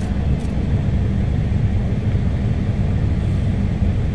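Steady low rumble heard inside a car's cabin: the engine idling with the heater blower fan running. A faint click about half a second in.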